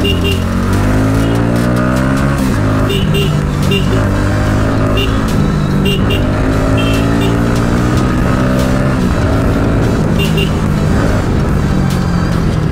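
Bajaj Pulsar NS200 motorcycle engine accelerating through the gears: its pitch rises three times and drops back at each shift, then it runs steadier near the end.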